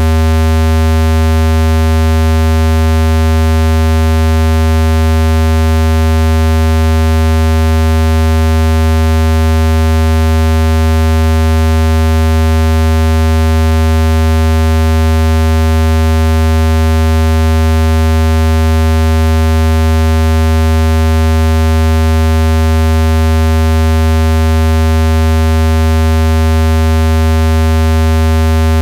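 Speaker-cleaning tone: a loud, steady, low synthesized buzz with a stack of overtones, unchanging, made to vibrate dust out of a phone speaker.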